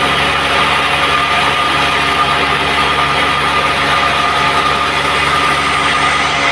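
Band sawmill running steadily, its motor droning under a constant high whine.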